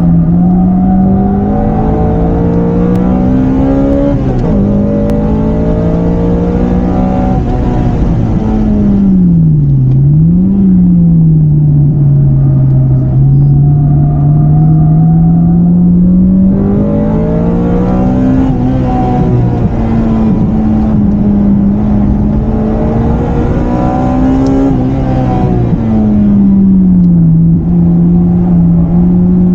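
Honda Integra Type-R DC2's 1.8-litre B18 VTEC four-cylinder engine lapping a track at high revs. Its pitch climbs under hard throttle, drops at gear changes, and falls back off throttle with a sharp short rise in pitch about ten seconds in. It holds a lower steady note before pulling hard again through the upper revs from about sixteen seconds in.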